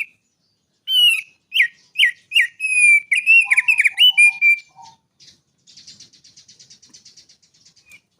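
A songbird singing: a run of loud, clear whistled notes, each sliding downward, for about four seconds, then a quieter, rapid, high trill of fast ticks for about two seconds.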